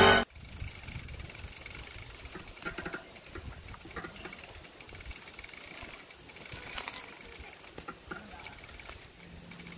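Background music cuts off abruptly at the very start. Then comes steady wind and road rumble from a bike on the move, with scattered small rattles and clicks.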